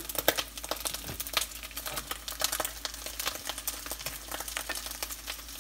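Dried anchovies (omena) frying in hot oil in a stainless steel pot, a dense, steady crackling sizzle, with chopped onion added to the pan.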